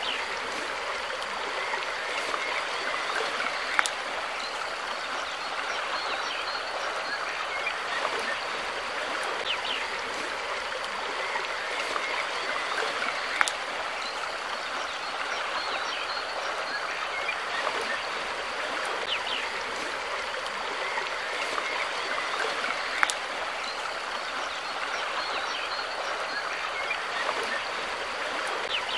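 River water flowing in a steady rush, with short high chirps over it and a sharp click three times, about ten seconds apart.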